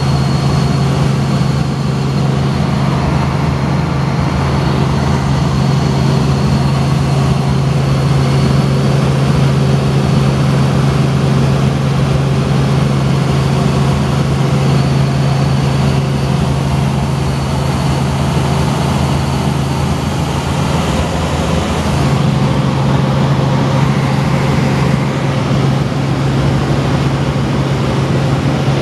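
Helicopter running steadily: a loud, constant low drone with a thin high whine over it, heard from on board.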